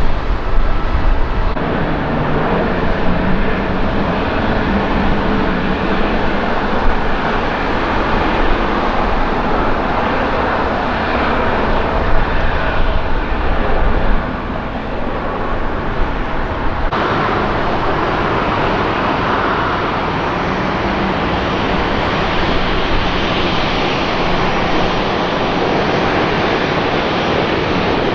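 Jet airliner engine noise, loud and steady, as a plane takes off or lands. A deep low rumble drops away about 14 seconds in, and the sound changes abruptly twice, once early and once about 17 seconds in.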